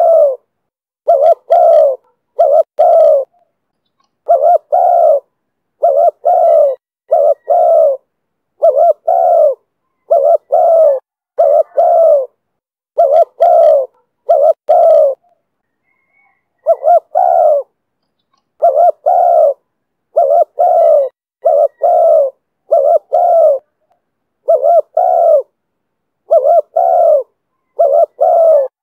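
Spotted dove cooing over and over in the voice type called 'thổ thúc bổi', short phrases of two or three notes every second or two, with a slightly longer pause about halfway through.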